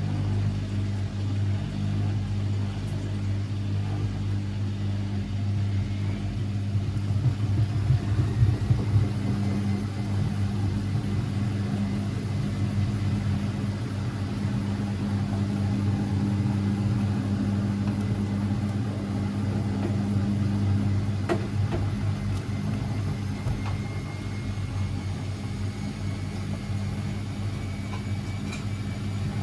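Constructa Energy 1000s washing machine running with a steady low motor hum, louder and uneven for a couple of seconds near the first third, and a faint whine that slowly rises in pitch near the end.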